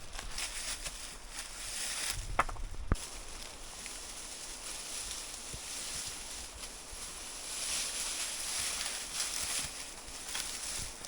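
Steady rushing of river water, with a few sharp knocks or snaps about two to three seconds in.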